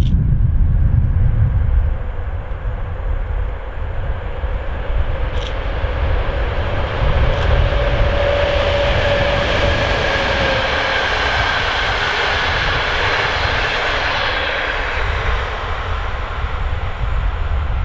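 EP07 electric locomotive hauling a passenger train past at speed: a rush of wheels on rail that builds as it approaches, peaks with a humming tone as the locomotive and carriages go by, then fades away. Two sharp clicks come as it draws near.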